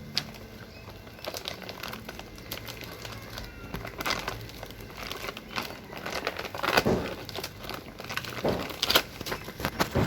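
Crinkling and rustling of a woven sack being handled, with scattered sharper crackles and knocks that come louder toward the second half.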